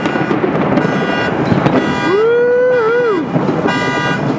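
Car alarm set off by a thunderclap, sounding a repeating honking tone about once a second over steady heavy rain, with one long tone in the middle that rises, holds and falls.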